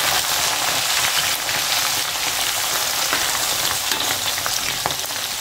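Boiled anchovies (teri) deep-frying in hot oil in a wok: a steady sizzle with a few clicks as a spatula stirs them, the oil bubbling while the fish's water cooks off on the way to crisp and brown.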